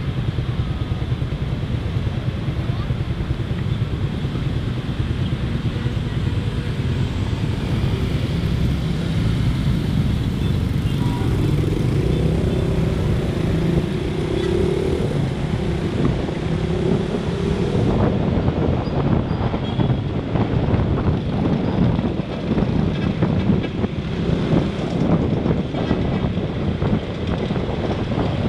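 Motorcycle riding through road traffic, heard from the bike itself: a steady engine hum and road noise, with other cars and motorbikes around it. Wind buffets the microphone more and more in the last third.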